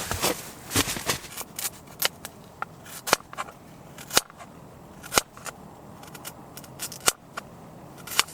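A knife chopping vegetables for a stew: sharp, separate cuts at an uneven pace, roughly one a second.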